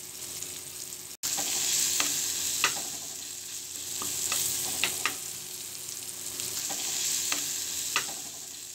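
Chopped onion, tomato and green chilli sizzling in oil in a frying pan while a spoon stirs them, the spoon now and then clicking and scraping against the pan. The sound cuts out for a moment about a second in.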